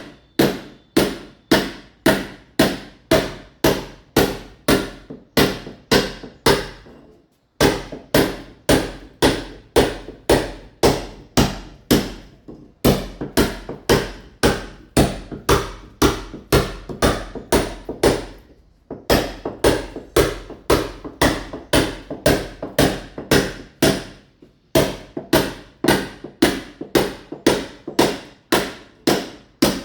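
Club hammer chipping a masonry wall to roughen it for ceramic tile: sharp strikes about two a second, in runs broken by short pauses about every five or six seconds.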